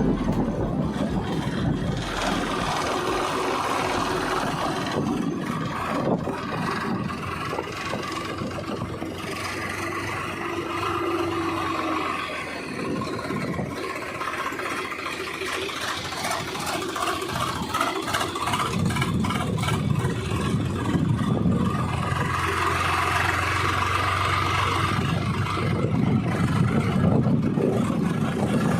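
Tractor diesel engine running steadily, its sound rising and easing over a low hum.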